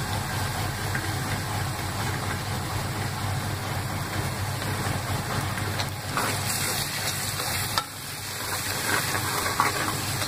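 Onion and ginger-garlic masala with chilli powder frying in oil in a pressure-cooker pot, a steady sizzle, while a ladle stirs it and scrapes against the pot, more often in the second half.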